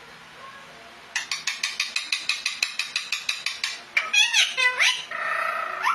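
Ringneck parrot calls: after a quiet first second, a rapid run of short, sharp chirps, about seven a second, then a few sweeping squawks and a drawn-out buzzy call near the end.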